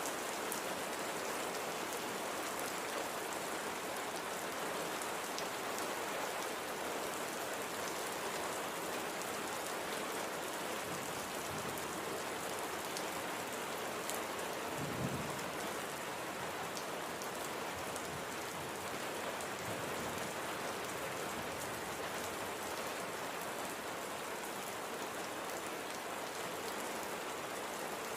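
Steady light rain falling on a surface, with individual drops ticking through the hiss. A brief low thud comes about halfway through.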